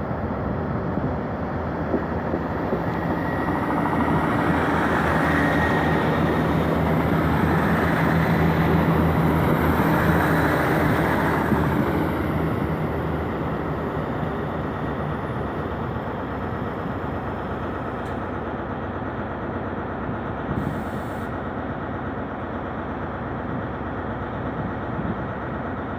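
Class 158 diesel multiple unit pulling out under power: its diesel engines and wheels on the rails swell to a peak a few seconds in, then fade as it draws away.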